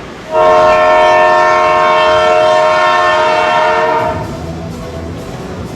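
A single loud horn blast of several notes at once, held steady for about four seconds before it cuts off. It is the kind of horn a rink sounds for a goal or the end of a period.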